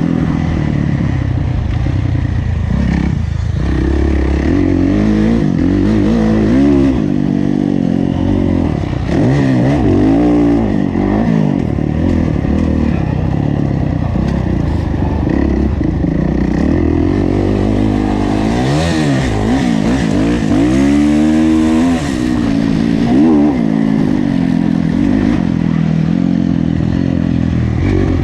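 Kawasaki KX450F's 450 cc four-stroke single-cylinder motocross engine racing on track, revving up and falling off again and again as the rider accelerates and shuts off between corners.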